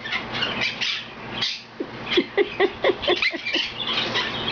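Quaker parrot chattering in short chirps and clicks, with a quick run of about ten sharp, lower-pitched pulses in the middle.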